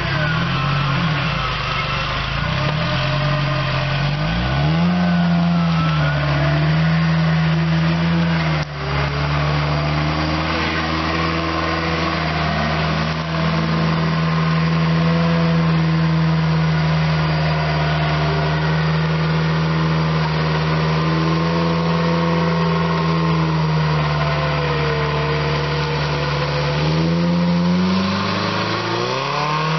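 Off-road 4x4's engine held at high revs under load as it claws up a steep bank. The revs climb about four seconds in, stay high with a brief dip about nine seconds in, and rise again near the end.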